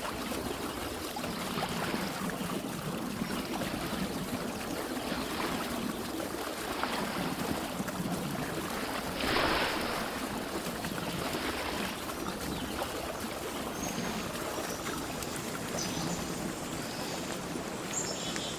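Forest ambience: a steady rushing noise that swells every second or two, with one stronger swell about halfway through. A few faint, high bird chirps come in near the end.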